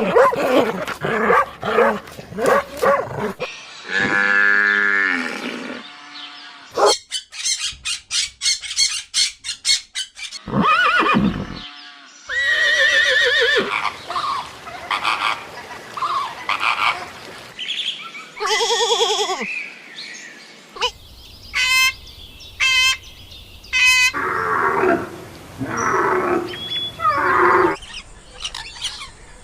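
A string of different farm animals' calls, each lasting a few seconds and changing abruptly from one animal to the next, among them low livestock calls of the mooing kind.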